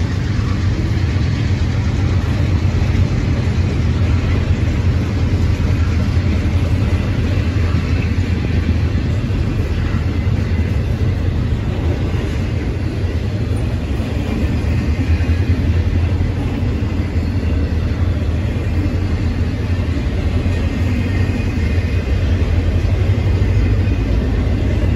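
Intermodal freight train's cars rolling past: the steady noise of steel wheels running on the rails, strongest in the low range and unbroken.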